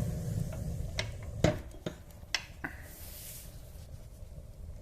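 A few sharp metallic clinks and knocks, the loudest about a second and a half in, over a low steady rumble.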